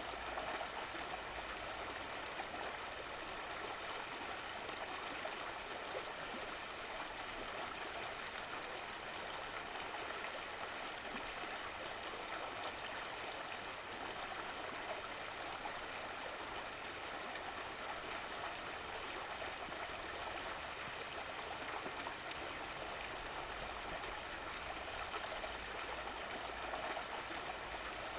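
Running water: a stream flowing over stones with a steady rush and gentle trickling.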